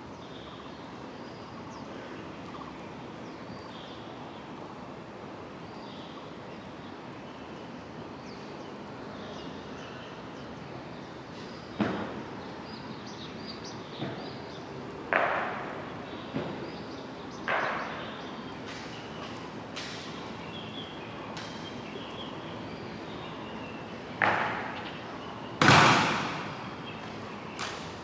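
A series of sharp, irregularly spaced drill impacts from a military honor guard, about eight in all, each with a short ringing tail, the loudest near the end, over a steady background hiss.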